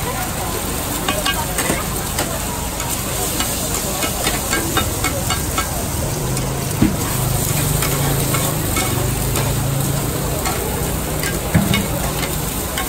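Egg for fried oysters sizzling in shallow hot oil in a wide pan, with a metal spatula scraping and clicking against the pan. Two louder knocks come about seven and eleven and a half seconds in.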